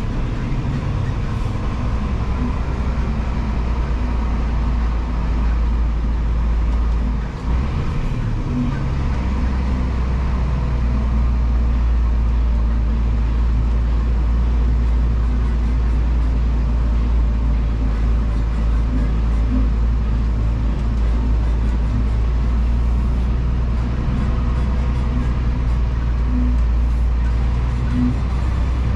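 Scania vacuum truck's diesel engine running steadily with road noise while driving, the low drone dipping briefly about seven seconds in.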